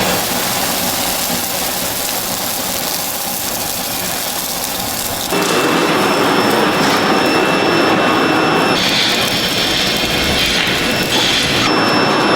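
Steady loud factory machinery noise from metalworking, changing abruptly about five seconds in and again near the end.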